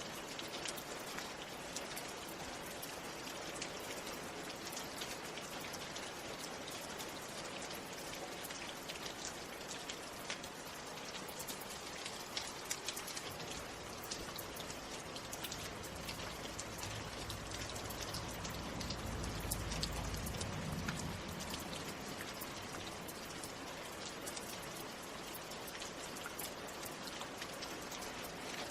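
Steady rain falling, with many individual drops ticking close by. A low rumble swells and fades about two-thirds of the way through.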